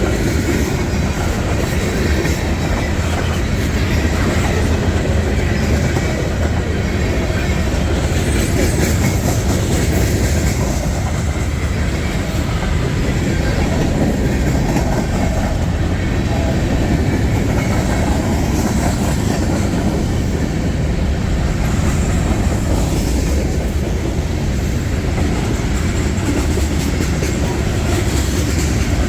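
Freight train rolling past, its cars making a steady rumble and clatter of wheels on the rails.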